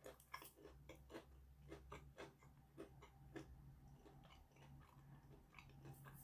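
A person chewing crunchy crackers: faint, quick, irregular crunches, several a second.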